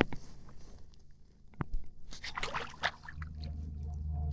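Handling noises on a kayak while a hooked fish is reeled in: a few sharp clicks and knocks, then a low steady rumble starting about three seconds in.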